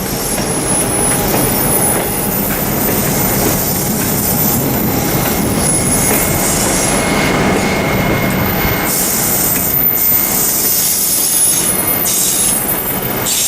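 Train running on the track: continuous wheel and rail noise with high-pitched wheel squeal, strongest around the middle.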